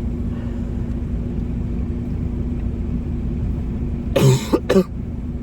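Steady low hum of a car idling, heard from inside the cabin. About four seconds in, a person coughs twice, hard, as if bread went down the wrong way.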